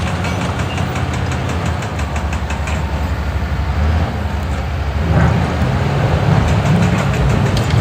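Excavator's diesel engine running steadily under a loud low rumble, with a faint rapid ticking over it; the engine gets a little louder about five seconds in.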